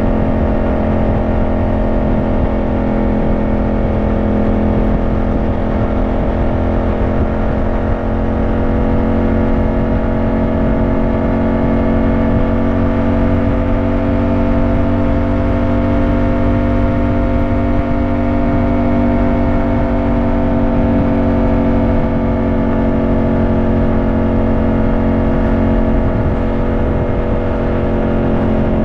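Yamaha motorcycle engine running at a steady cruise, its pitch rising gently through the middle and easing back down, with rushing noise underneath.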